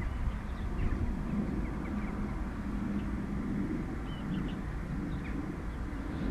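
Low, steady rumble of a distant freight train passing slowly, with a faint hum in the middle, and faint short bird chirps over it.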